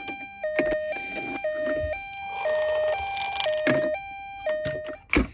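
Toy ambulance's electronic two-tone siren, switching between a higher and a lower note about every half second, with plastic clicks and knocks over it; the siren stops near the end, just before a sharp click.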